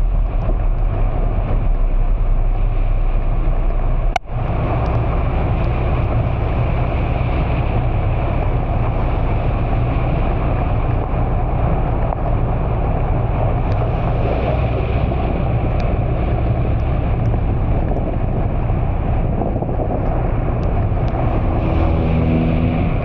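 Steady vehicle running noise with tyres on a wet road in heavy rain, a continuous low rumble under a hiss, with a brief break about four seconds in.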